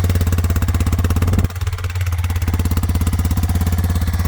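2021 Kawasaki KLX230R's fuel-injected single-cylinder four-stroke engine idling steadily while still warming up from a cold start, with an even, rapid pulse; the sound drops and goes muffled for about a second a little way in.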